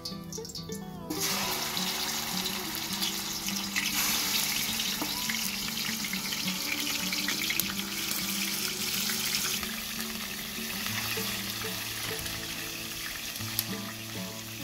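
Hot oil sizzling in a wide frying pan as chicken drumsticks are laid in, the sizzle starting suddenly about a second in and running on steadily. Background music plays underneath.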